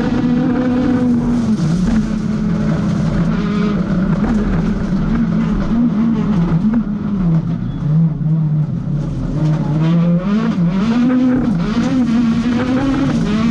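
Rally kit car engine revving hard, its note rising and falling with throttle and gear changes. The pitch sags lowest about eight seconds in, then climbs again.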